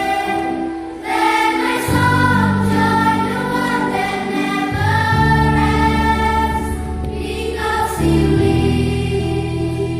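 Elementary school children's choir singing a Christian song in unison over held low accompaniment notes that change every few seconds.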